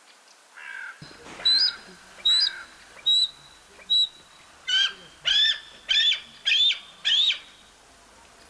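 A bird calling: a run of about ten loud, high, sharp calls. Each call is a quick rise and fall in pitch, and they come faster toward the end, about two a second.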